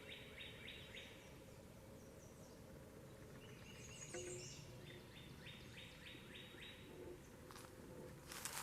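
Faint woodland ambience with a songbird singing two short phrases of quick repeated notes, one at the start and one past the middle. There are a few soft rustles or footsteps near the end.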